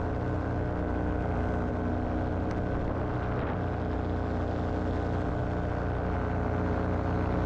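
Paramotor engine and propeller running steadily at constant throttle in flight, with a steady hum of even pitch.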